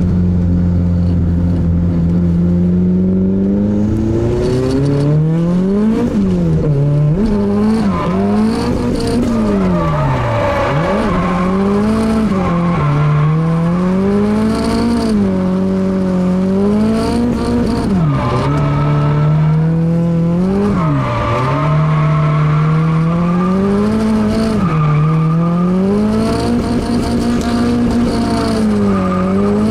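Honda K24 inline-four in a Nissan Cefiro drift car, heard from inside the cabin. It holds a steady pitch for the first few seconds, then revs up and drops back over and over, every two to four seconds, as the car is driven through drifts, with tyres squealing.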